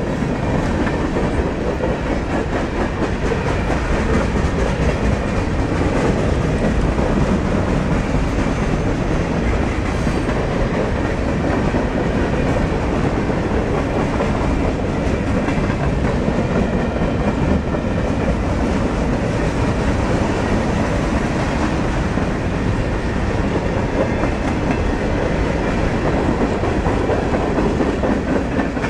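Freight train cars (boxcars, a covered hopper and tank cars) rolling past close by: loud, steady wheel-on-rail noise that does not let up.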